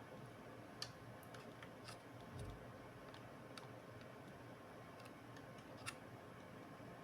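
Faint, scattered small clicks and ticks over a quiet hiss, with two sharper clicks about a second in and near the end and a dull knock about two and a half seconds in, typical of small tools and laptop parts being handled on a bench.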